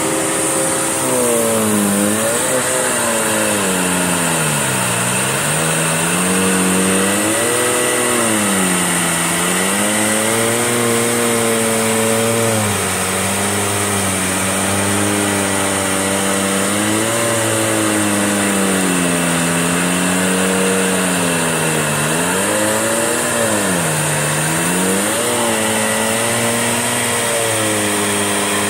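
Electrolux Turbo 2 Super vacuum cleaner running on carpet as it is worked in long, slow strokes. Its motor pitch dips and recovers every few seconds over a steady high whine.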